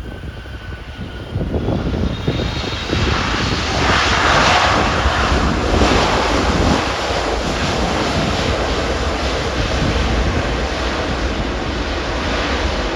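Boeing 777-300ER's GE90-115B turbofan engines: a faint whine, then loud jet noise swelling to a peak about four to six seconds in as the airliner passes on landing, then staying loud and steady. Wind rumbles on the microphone underneath.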